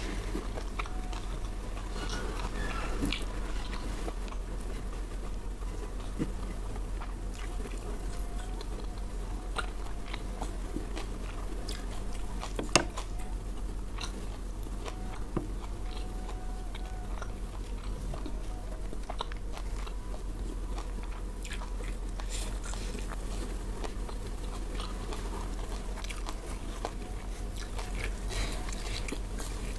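Close-miked chewing and crunching of food eaten by hand, with scattered sharp mouth clicks; one click a little before halfway is much louder than the rest. A steady low hum runs underneath.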